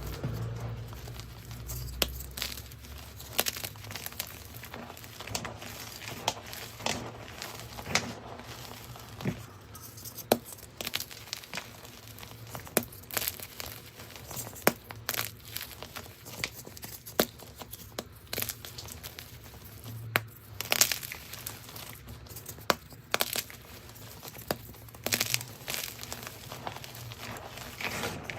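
Gym chalk being crushed and crumbled, with many irregular crunchy crackles and snaps.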